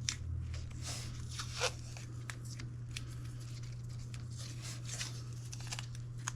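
Adhesive tape being pulled and torn from a roll and wrapped around a mower's seat switch to hold it closed, a string of short rips and crinkles. A steady low hum runs underneath.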